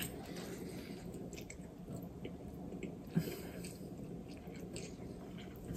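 A person chewing a mouthful of spaghetti pasta, with soft wet mouth clicks scattered through it and one slightly louder click a little after three seconds.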